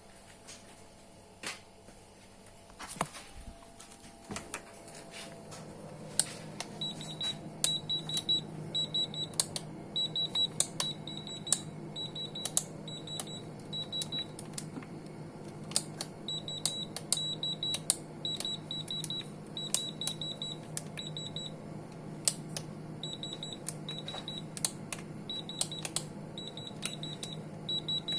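Groups of short, rapid, high-pitched electronic beeps repeating, mixed with scattered sharp clicks, over a steady low hum that starts a few seconds in.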